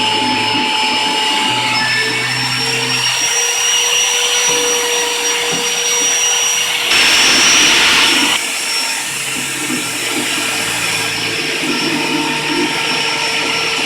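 Router spindle on a CNC router table running while it cuts acrylic, a steady high whine over noise. Lower humming tones from the machine's drive shift pitch in steps as it moves. A louder hiss swells about seven seconds in and lasts a second and a half.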